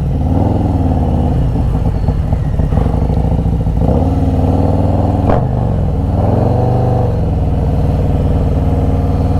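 Motorcycle engines running together, with the pitch rising and falling a couple of times as a bike is revved or pulls past.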